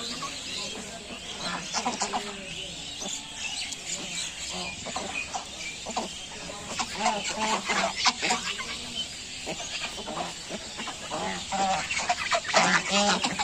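Chickens clucking: many short calls, one after another, busiest near the end.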